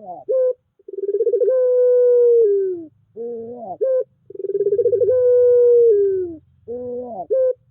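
Puter pelung dove cooing in repeated phrases. Each is a short rising note and then a long coo that sags in pitch at the end. There are two full phrases, with a third beginning at the very end.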